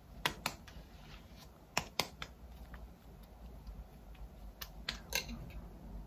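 Scattered sharp clicks and light taps from makeup items being handled, several in quick pairs, with a quiet pause in the middle.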